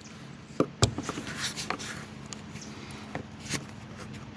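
Scattered clicks and knocks of hand tools working at the gunk-filled square-drive screws of a truck camper's underside panels, over a faint steady hum.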